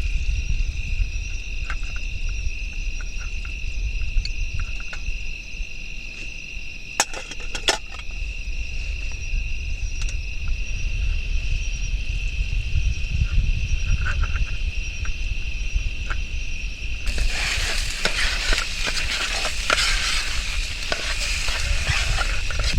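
A vegetable dish cooking in a pan on a gas stove: a few sharp clinks of a utensil against the pan, then from about 17 seconds in a loud frying sizzle. Crickets trill steadily behind it, over a low rumble.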